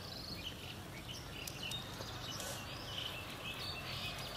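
Small birds chirping repeatedly against a steady outdoor background hiss.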